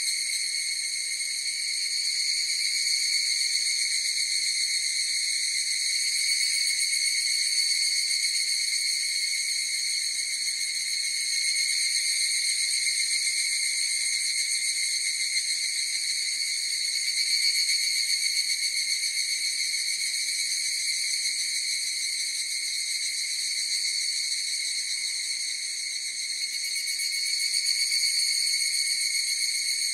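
A chorus of higurashi (evening cicadas, Tanna japonensis) calling without a break. It makes a steady, high, ringing drone that slowly swells and fades every few seconds.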